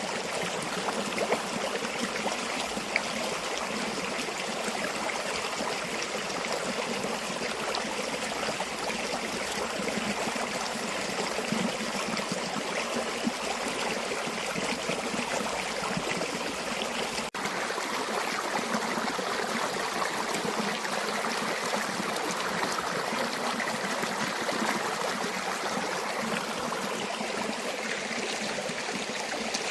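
River water flowing in a steady, even rush, with a momentary break about 17 seconds in.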